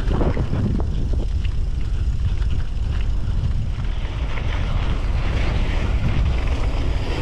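Wind buffeting the microphone: a steady heavy low rumble with a rushing hiss that grows stronger in the second half.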